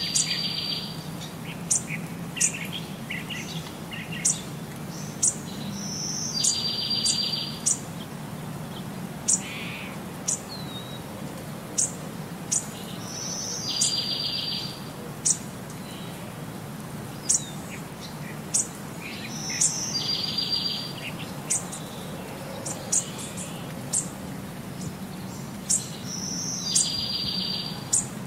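Birdsong: sharp high chirps and a short buzzy trill, the same phrase repeating about every seven seconds like a loop, over a steady low hum.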